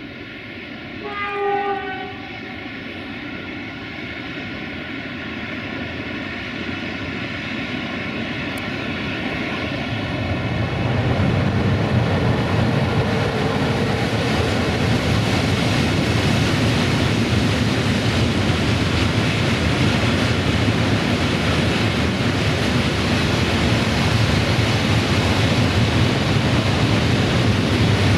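060-EA (LE 5100 kW) electric locomotive giving one short horn blast about a second in, then humming steadily and growing louder as it approaches. From about ten seconds in, the loud steady rumble of the locomotive and a long rake of tank wagons rolling past on the rails.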